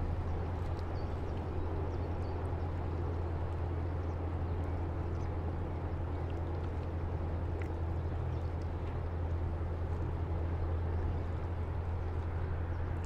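Riverside ambience at a breakwater: a ship's engine drones low and steady, over water lapping and splashing against the breakwater.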